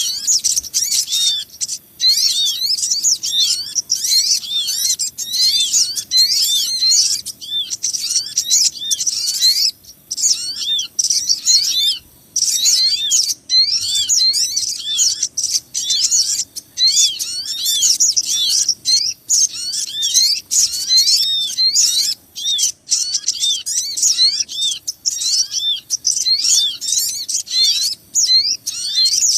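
Dense, continuous chatter of many small birds, with rapid high-pitched chirps and twitters overlapping without pause. It is a lure call for attracting small birds such as the sogon.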